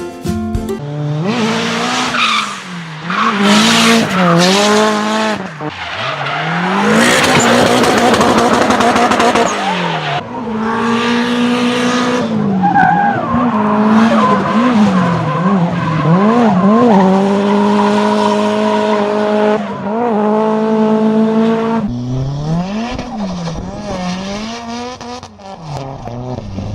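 Car engine revving hard, its pitch swinging up and down again and again, with tires squealing and skidding in long loud stretches.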